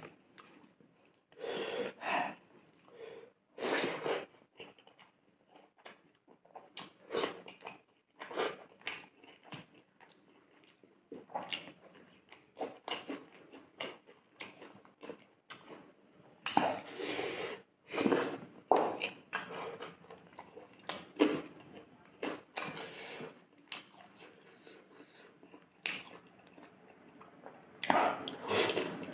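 Close-miked chewing and mouth noises of a person eating rice and fish curry by hand. The bites come irregularly with short pauses, and grow louder in the second half.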